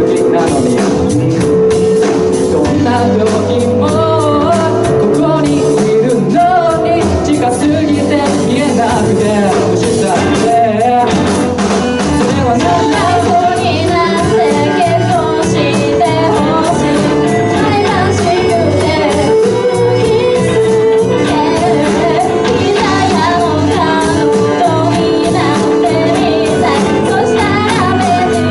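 Live band playing a pop song, with a lead vocal over keyboard and band accompaniment.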